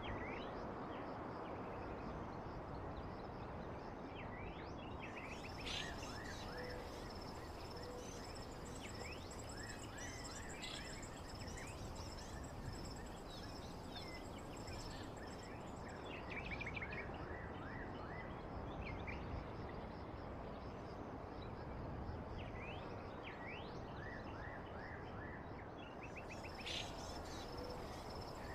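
Faint outdoor nature ambience: a steady high-pitched insect buzz, with short bird chirps coming in scattered bunches over a low background hiss.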